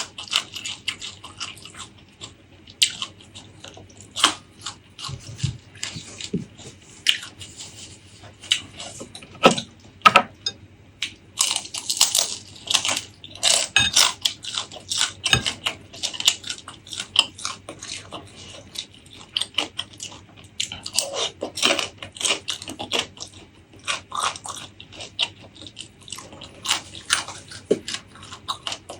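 Close-miked eating sounds: a person chewing and biting food, with a dense run of quick wet smacks and crunchy clicks, busiest about a third of the way in.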